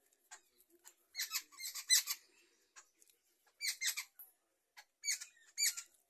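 A flock of jungle babblers chattering, with high squeaky calls in three quick bursts: about one second in, about three and a half seconds in, and about five seconds in.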